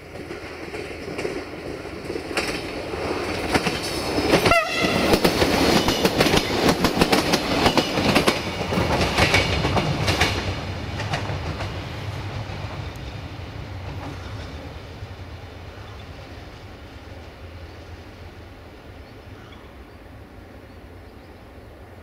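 Siemens Desiro diesel multiple unit passing close by, its wheels clattering rapidly over rail joints and points under a steady engine drone. About four and a half seconds in there is a brief high tone. After about ten seconds the sound fades away as the unit pulls off.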